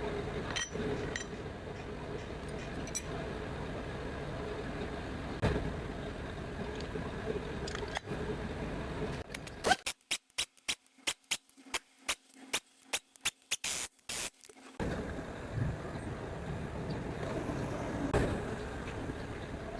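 Steady workshop background noise with a low hum and a few light clicks. About halfway through, roughly five seconds of rapid, sharp clicks come with dead silence between them, then the background returns.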